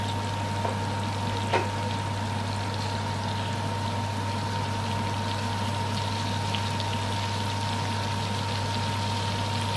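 Chicken drumsticks frying in a pan, a steady sizzle with a few faint crackles, over a steady low hum.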